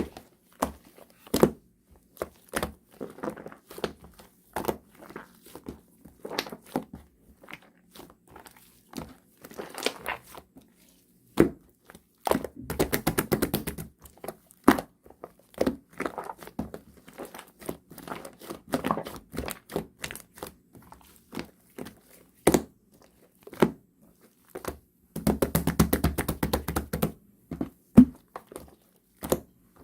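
Fluffy cloud slime being squeezed, poked and stretched by hand: irregular sticky clicks and pops, with two spells of rapid crackling, one about halfway through and one near the end.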